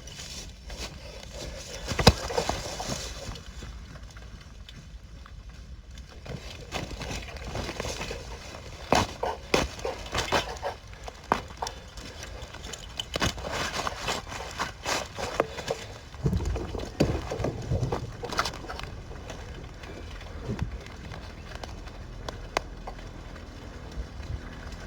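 Scattered knocks and clicks in irregular clusters over a steady low rumble.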